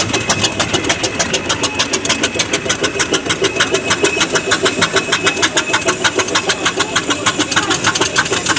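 A vintage engine running steadily with a fast, even exhaust beat of about eight beats a second.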